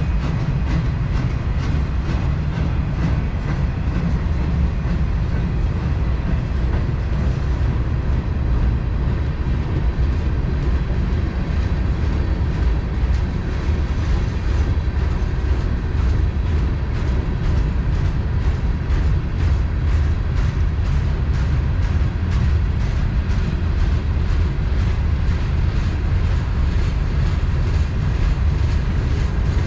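Freight train cars rolling past: a steady loud rumble with the rhythmic clickety-clack of wheels over rail joints.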